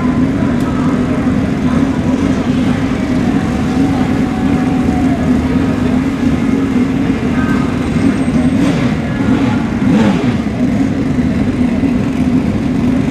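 Pro Xtreme drag-racing motorcycle engines running loudly at steady revs, a constant drone with no rising gear-change pattern.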